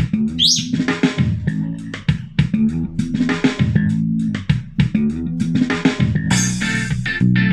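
Portable Bluetooth speaker playing a pop-rock song with bass guitar, guitar and drums, recorded through an external microphone; the arrangement turns fuller and brighter about six seconds in.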